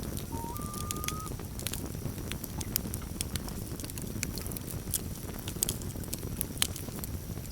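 Campfire crackling, with many sharp pops over a steady low rumble of burning wood. About half a second in, a loon gives a short wail that steps up to a higher note and holds it for under a second.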